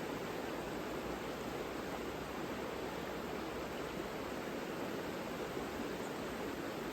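The Savica river flowing: a steady, even rush of water with no change.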